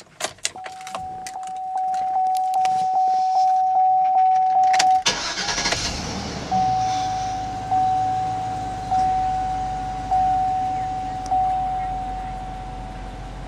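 Keys jingle in the ignition of a 2005 Chevy Suburban as a dashboard warning chime dings about twice a second. About five seconds in, the 6.0-litre V8 cranks and catches, then settles into a steady idle. The chime carries on over the idle, slowing to about one ding a second.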